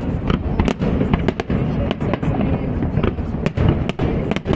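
Fireworks display going off continuously: a dense low rumble of shell bursts with many sharp cracks and bangs in quick succession.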